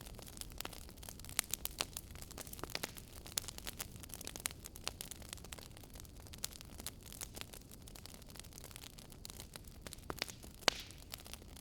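Wood fire burning in a fireplace, crackling with irregular sharp pops over a steady low rumble of flames; one louder pop near the end.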